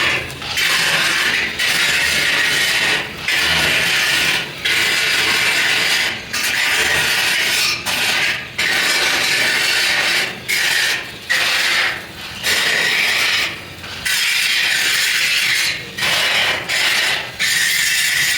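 A tool working metal in repeated rasping strokes, about a dozen passes of a second or so each, separated by brief breaks.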